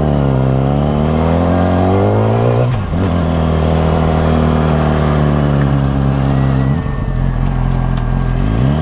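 Yamaha R6 inline-four engine running under way, its note dipping sharply and climbing back about three seconds in, about seven seconds in, and again at the end, like quick gear changes.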